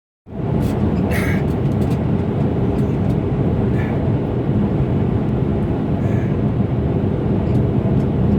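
Steady low rumble of a truck being driven, engine and road noise, with a few brief higher clinks or rattles about a second, four seconds and six seconds in.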